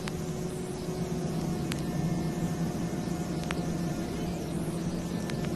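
Steady mechanical drone of a vehicle running at constant speed, an even hum and rushing noise, with a few faint clicks from the vinyl record.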